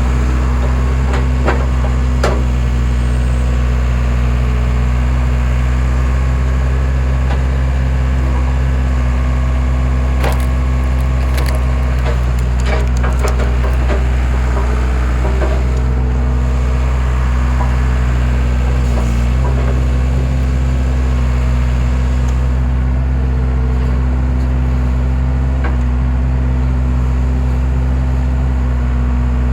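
Skid steer engine running steadily under a homemade wood splitter, with sharp cracks and snaps of logs splitting: a couple near the start and a cluster about ten to thirteen seconds in.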